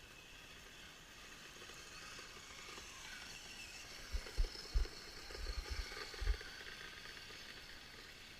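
Kyosho Blizzard RC snowcat running, its electric motor and gears giving a high whine that rises and falls in pitch. A handful of short low thumps come near the middle.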